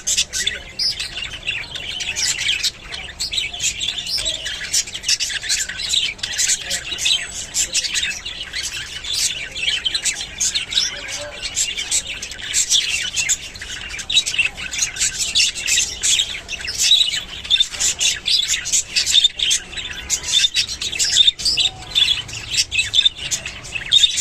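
Budgerigars chattering: a continuous stream of rapid, overlapping short chirps and squawks from several birds.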